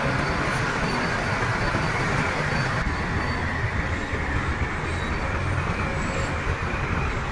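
Heavy diesel earthmoving machinery running steadily, a continuous low rumble with a noisy mechanical wash over it.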